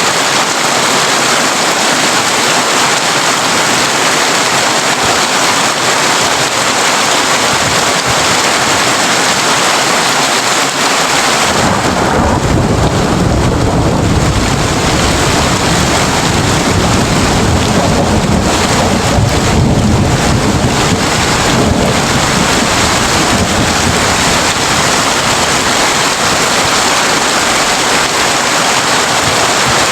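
Heavy rain drumming steadily on a corrugated tin roof. About twelve seconds in, a long, deep rumble of thunder rolls in beneath it and lasts some fifteen seconds before fading.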